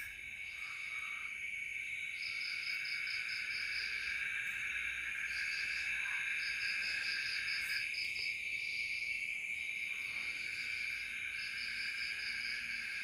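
Night insect chorus: a steady high buzz, with crickets chirping in repeated short trains of rapid pulses.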